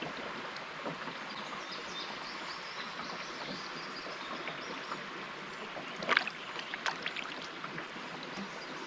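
River water running steadily past a canoe, with a sharp splash or knock about six seconds in and a smaller one about a second later.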